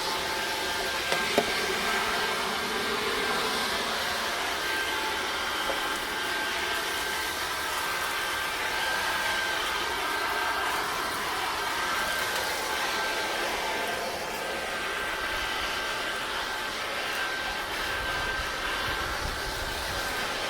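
Leaf blower running steadily with a thin whine over its rushing air, blowing away a dried pile of yard debris; it cuts off near the end.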